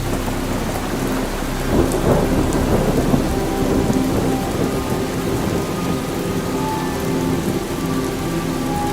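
Steady rain falling, with a low rumble of thunder rolling in about two seconds in and fading back into the rain.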